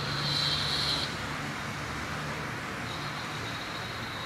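Steady rumble of a metre-gauge passenger train running away into the distance. A high squeal lasts about a second at the start and comes back fainter near the end.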